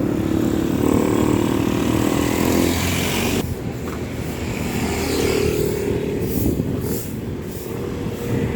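Street traffic: motor vehicle engines, including motorcycles, running and passing close by over a steady low rumble, with one engine note cutting off abruptly a few seconds in and another coming through about halfway.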